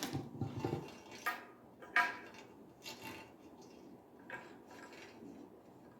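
Hard clinks and taps of chrome shower head and filter fittings being handled and set down, about five separate knocks with a brief ring after each.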